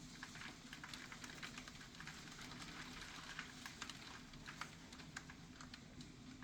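Hailstones striking hard surfaces: a faint, dense, irregular ticking of many small sharp impacts, over a low steady hum.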